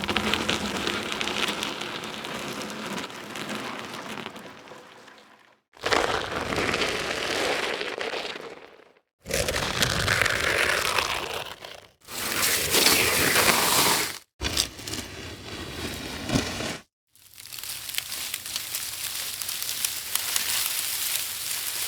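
A run of six separate foley sound effects, one after another, each a few seconds of noise with short silent gaps between them.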